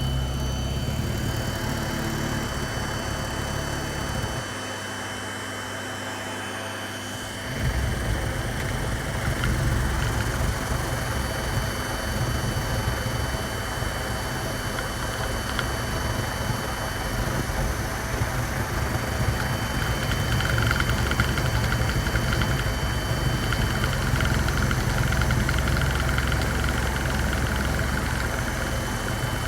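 Vacuum cleaner running steadily, vacuuming up hair, with a high motor whine over a low rumble. About four seconds in, the low rumble drops away, then comes back a few seconds later.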